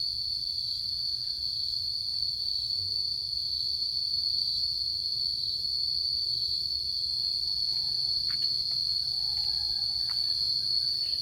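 Insects calling in a steady, unbroken high-pitched drone, with a low rumble beneath and a few faint ticks near the end.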